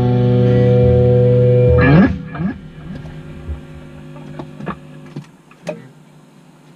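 Jam session music: a loud held guitar chord over low bass that is cut off about two seconds in, leaving a faint lingering tone and a few small clicks as the playing stops.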